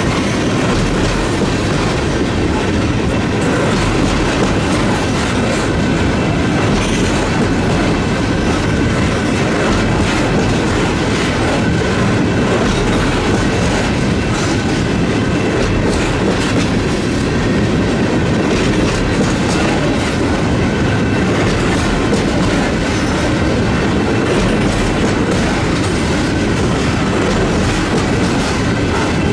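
Empty tank cars of a freight train rolling past at close range: a loud, steady rumble of steel wheels on rail with clicking and clattering as the wheels pass over the track.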